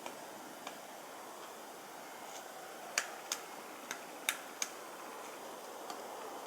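Pileated woodpecker chiselling into a tree with separate, irregularly spaced blows, not a drumming roll. A few light taps come first, then a cluster of five sharper strikes in the middle, over a steady hiss.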